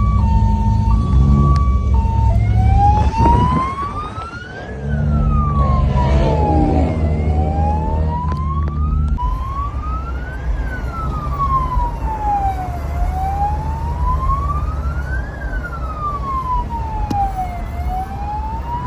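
Electronic vehicle siren: a two-tone hi-lo pattern that switches about two seconds in to a slow wail, rising and falling about every five seconds. A vehicle engine runs with a low rumble underneath.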